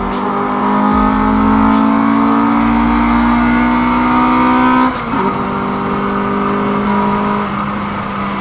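Car engine accelerating hard, its pitch climbing slowly, with a gear change about five seconds in where the pitch drops and then starts rising again.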